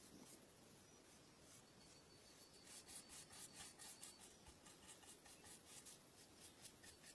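Faint rubbing strokes, about three or four a second, starting about two and a half seconds in over near silence.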